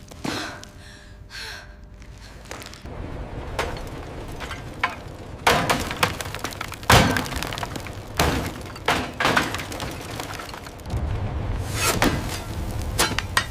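A series of sharp knocks and bangs at irregular intervals, about eight in all, the loudest about seven seconds in, over a low rumble.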